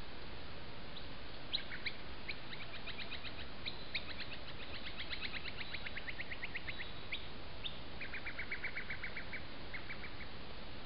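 Birds calling in fast runs of short, repeated notes, several runs overlapping at different pitches, over a steady hiss.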